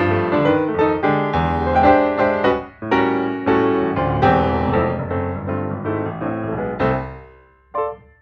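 Background piano music: a flowing melody over chords that winds down and fades about seven seconds in, followed by a single short note near the end.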